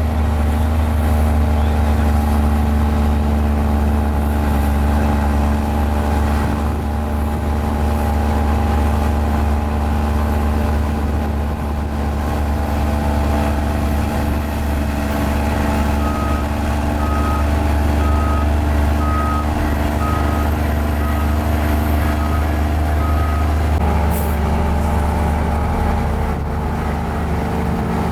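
Diesel engine of a mini Komatsu bulldozer running steadily with a deep hum. About halfway through, a reversing alarm beeps about nine times, a little over one beep a second, and the engine note changes as the beeping stops.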